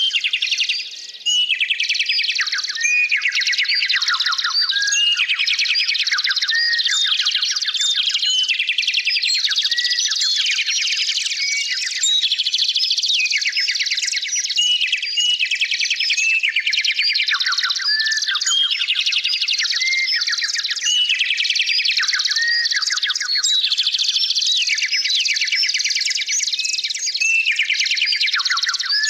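Many small songbirds chirping and trilling at once, their calls overlapping densely without a break: quick rapid trills and short sweeping notes.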